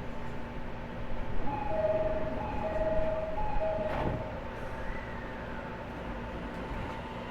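Inside an E501 series train car: a two-note door chime repeats three times, then the doors shut with a single knock. The car's steady equipment and air-conditioning hum runs underneath.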